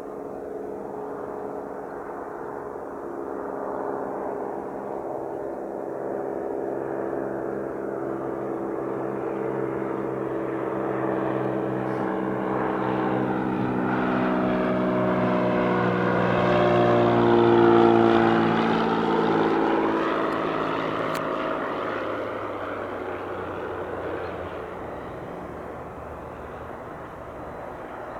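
Beechcraft V35 Bonanza's six-cylinder piston engine and propeller as the plane flies past on landing. The engine note grows louder to a peak about two-thirds of the way through, drops in pitch as the plane passes, then fades.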